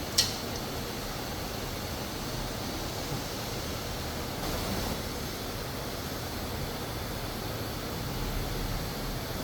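Steady hum and hiss of factory-floor machinery, with one sharp clink just after the start and a faint tick about three seconds in.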